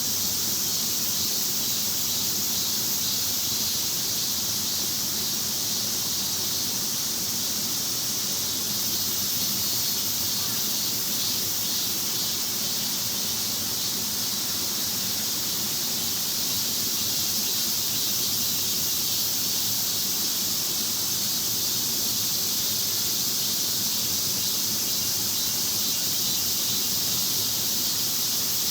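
Chorus of cicadas, a dense, steady high-pitched drone that does not let up.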